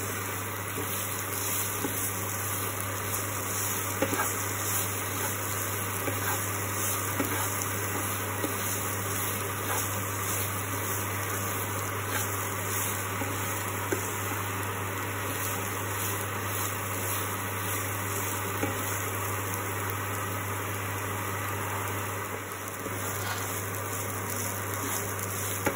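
Coconut paste and raw rice frying in oil in a non-stick kadai with a steady sizzle, stirred with a wooden spatula that scrapes and taps the pan now and then, over a steady low hum.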